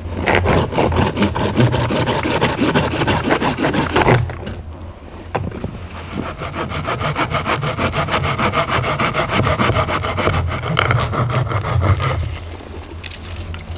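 A hand saw cutting through wood with a rasping, rhythmic scrape: a run of strokes for about four seconds, a short pause, then another run that stops about twelve seconds in.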